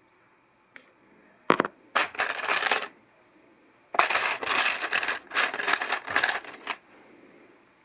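Loose plastic LEGO pieces clattering against each other as they are sifted or shaken. There is one sharp clack, then a short spell of clatter and a longer one about two seconds later.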